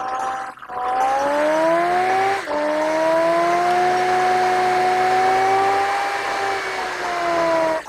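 Car engine pulling under load, its note gliding up and down, with three brief breaks where gears are changed and the pitch starts again at a new level.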